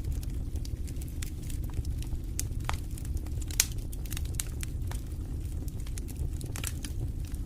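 Wood fire burning in a fireplace: irregular crackles and pops over a steady low rumble, with one louder pop about three and a half seconds in.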